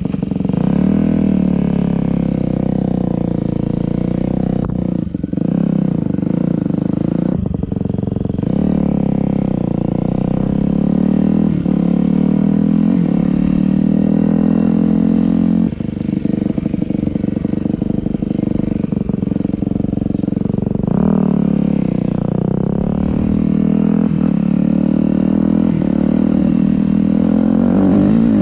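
Yamaha YZ250F dirt bike's single-cylinder four-stroke engine being ridden, revving up and down as the throttle opens and closes, with a few brief drops in revs.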